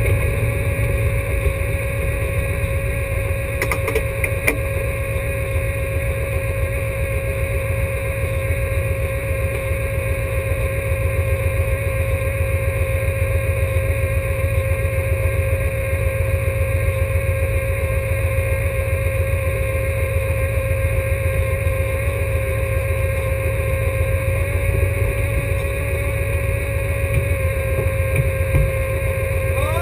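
Alfa Romeo GTA race car's four-cylinder engine idling steadily, heard from inside the cabin, with a brief rising whine near the end.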